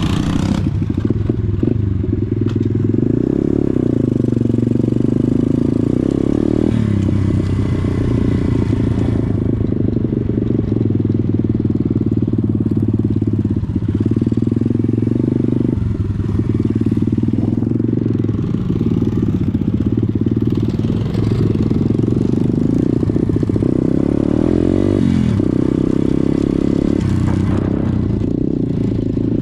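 Pit bike's single-cylinder four-stroke engine running under way, its pitch rising and falling as the throttle is opened and eased off.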